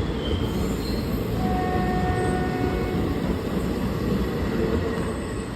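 Train running through on the track, a steady heavy rumble of wheels and coaches. A faint pitched tone sounds for about a second, roughly a second and a half in.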